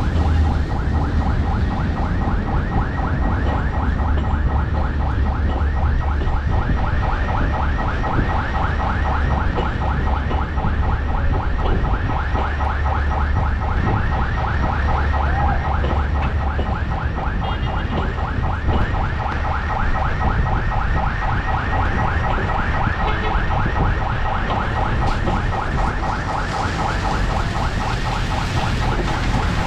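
Bangladesh Railway passenger train rolling slowly along the station tracks: a low steady rumble with a fast, regular squeaking over it, several squeaks a second.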